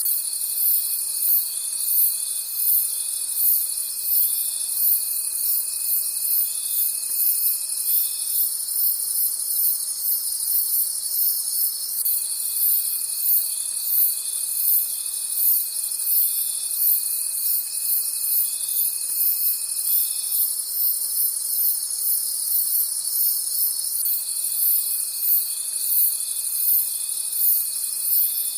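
Night chorus of crickets: dense, high-pitched chirping in quick, even pulses, with several insects layered. A lower, steady trill runs for several seconds at a time, cutting out twice and coming back.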